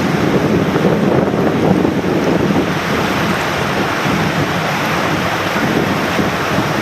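Rushing mountain-stream water: a loud, steady roar of current over rocks.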